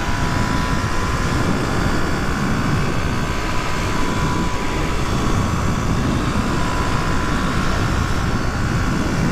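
Suzuki DR250S single-cylinder four-stroke thumper running at a steady cruising speed, with wind rush on the microphone, a faint steady whine over it.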